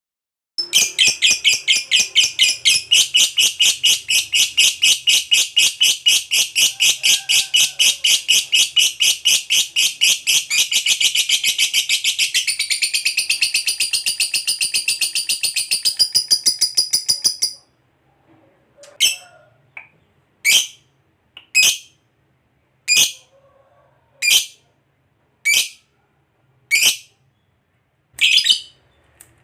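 Lovebird giving a long, rapid, unbroken chattering trill, the prized 'ngekek panjang', for about seventeen seconds, rising in pitch toward its end. It then breaks off into single sharp high chirps about every second and a half.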